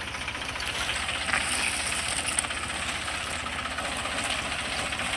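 Deutz-Fahr tractor's diesel engine running steadily at idle, with a fast, even low pulsing.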